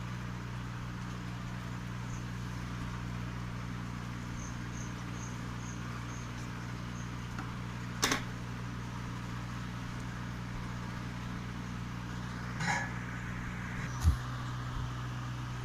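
Steady low electrical hum with a few faint, high, evenly spaced chirps of a cricket, broken by three short sharp knocks, one about halfway through and two near the end.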